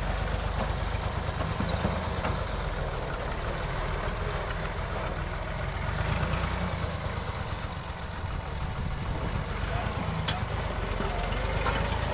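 New Holland Ghazi tractor's diesel engine running steadily at a low, even speed.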